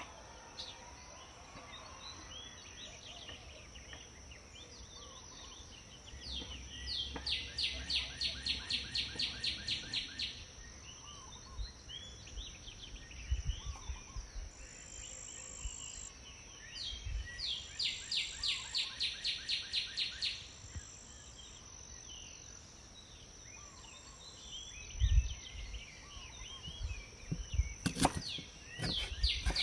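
Outdoor birdsong: a bird twice sings a rapid series of repeated notes, about four a second for some three seconds each time, with scattered short chirps in between and a steady high-pitched tone underneath. A few low thumps come near the end.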